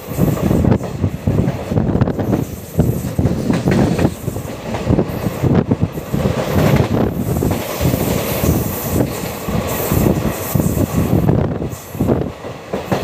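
Passenger train coaches rolling along the track, heard from an open doorway of a moving coach: a continuous rumble and rattle of steel wheels on the rails.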